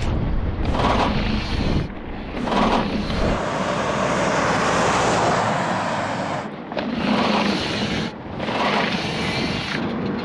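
Wind rushing and buffeting over the microphone of a cyclist riding at speed. There is a deep rumble for the first few seconds, the rush swells through the middle, and it cuts out briefly a few times.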